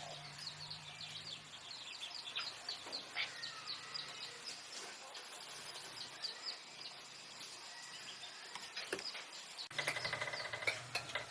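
Baby birds cheeping: a steady run of thin, high, quick chirps, several a second. Louder, busier sounds come in near the end.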